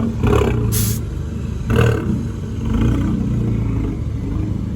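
A car engine running steadily close by, with a brief hiss just under a second in.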